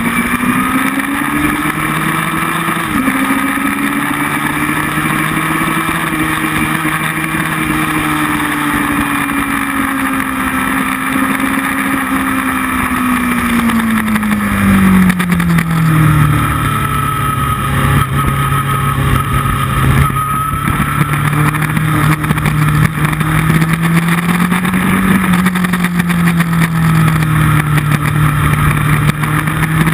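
Motorcycle engine at speed on a racetrack, heard close over steady wind rush. Its note climbs near the start and drops suddenly about three seconds in. It then eases down through the middle and runs lower, rising and falling gently.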